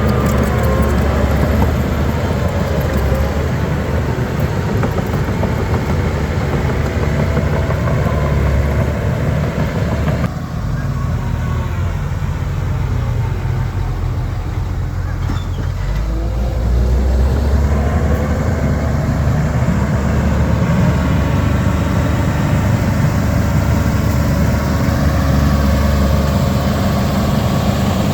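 Heavy diesel earthmoving machinery running: a steady low engine sound with the engine note changing as the machines work, thinning about ten seconds in and growing louder again a few seconds past the middle.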